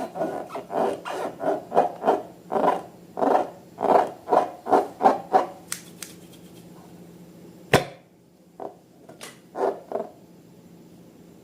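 Rubber balloons filled with slime being squeezed and rubbed by hand: a quick run of short rubbery strokes, about two a second, for the first five seconds. Then a single sharp snap near eight seconds and a few softer taps.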